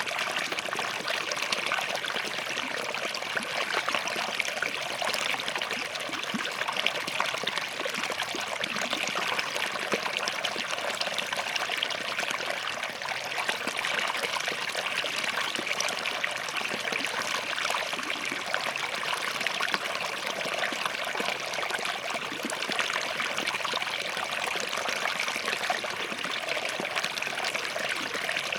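Small forest stream flowing over and between rocks: a steady babble of running water.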